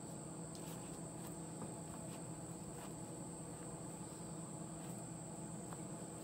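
Insects chirring outdoors: a faint, steady, high-pitched drone that does not let up, with a few faint scattered ticks.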